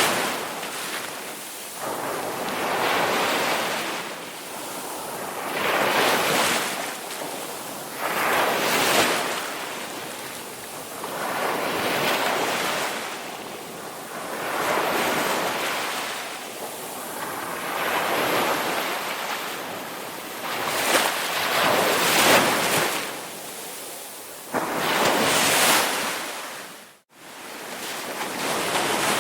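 Ocean surf, waves breaking and washing in, with a new surge about every three seconds. The sound drops out briefly near the end.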